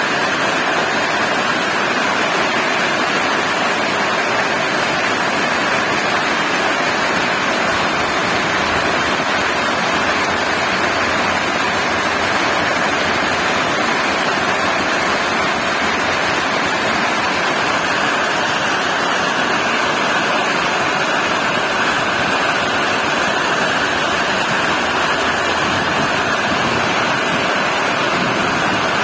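Heavy rain falling, a steady dense hiss with no breaks or thunderclaps.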